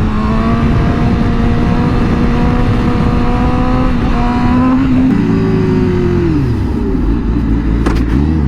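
Sport motorcycle engine running under way at steady revs, with a small step up in pitch about four seconds in. The revs then fall away as the bike slows, and pick up again near the end as it accelerates.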